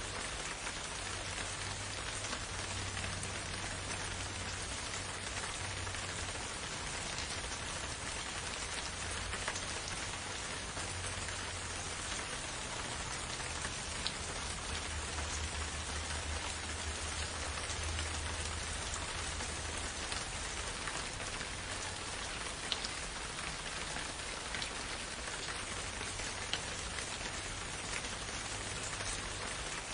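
Steady rain falling in a forest, an even hiss with scattered individual drop ticks and a faint low rumble underneath.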